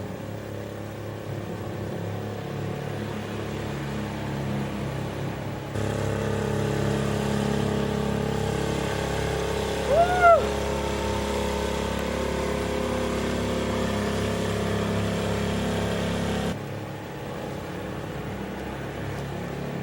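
Motorboat engine running steadily, louder through the middle stretch, which starts and stops abruptly. About halfway through, a short pitched sound rises and falls.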